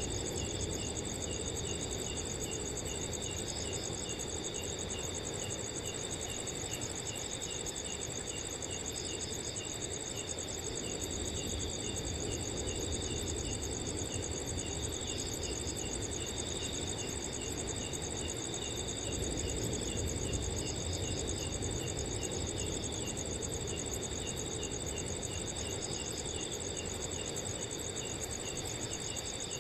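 Several crickets chirping together at different pitches, some in a continuous high trill, one in quick regular chirps and another in occasional short bursts, over a low, steady rumble of wind.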